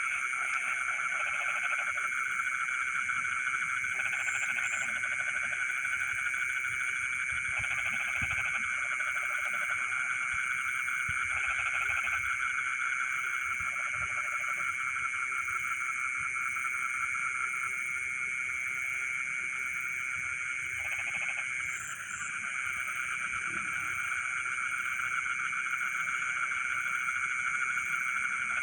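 Frogs chorusing steadily over a high continuous buzz of insects. A lower croaking call breaks in every few seconds, each burst under a second long.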